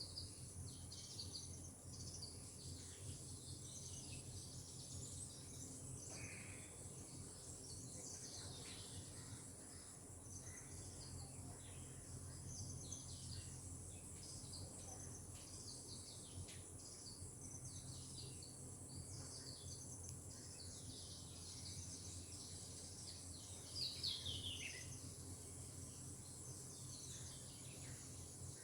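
Forest ambience: many birds chirping with short falling calls over a steady high-pitched insect drone, one call louder and falling late on.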